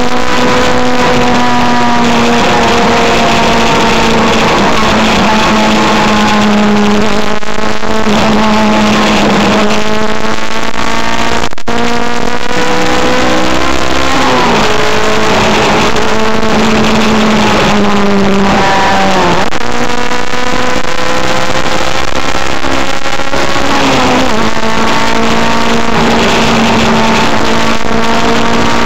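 Car engine running hard at steady high revs at speed. Its pitch dips sharply and briefly three times, about halfway through and twice more towards the end, as the throttle is lifted or a gear is changed, then settles back.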